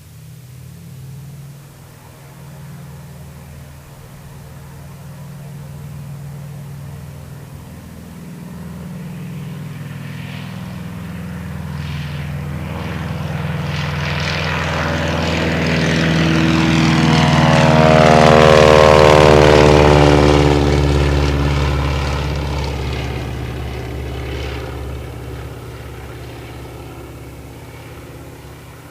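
Boeing Stearman biplane's radial engine and propeller running at takeoff power. It grows louder as the plane approaches, passes closest about two-thirds of the way through with a drop in pitch, then fades away.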